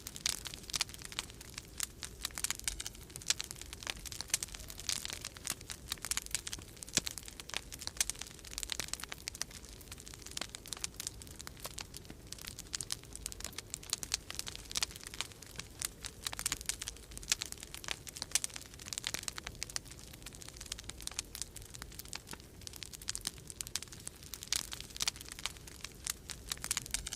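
Wood fire crackling in a fireplace: dense, irregular small pops and snaps, over a steady low rumble of winter storm wind.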